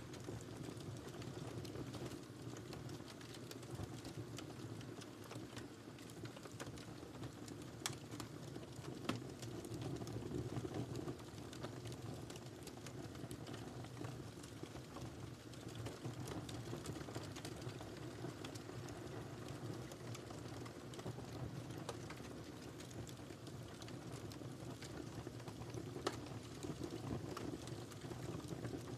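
Wood fire burning steadily in a fireplace, a low rushing bed of flame with scattered small crackles and a few sharper pops.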